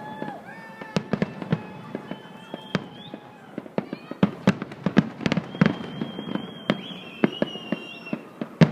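Many fireworks going off, a rapid, irregular run of sharp bangs and pops with several close together.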